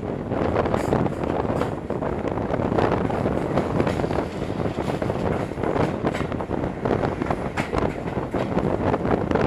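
Wind buffeting the microphone held out of an open window of a moving railway coach, over the steady rumble of the coach's wheels on the track, with irregular clicks from the running gear.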